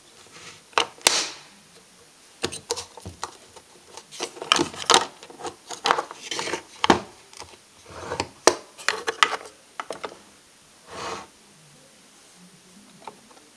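Hand work on a car's electric door lock: irregular clicks, knocks and scraping of small parts and tools, with a longer rub about eleven seconds in.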